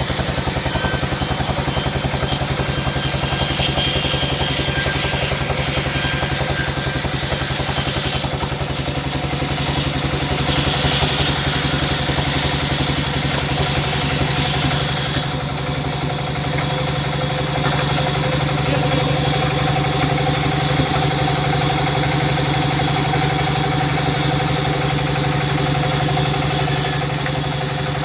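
Sawmill machinery running steadily: a loud mechanical drone with a fast, even pulse, its higher hiss changing about 8 and again about 15 seconds in.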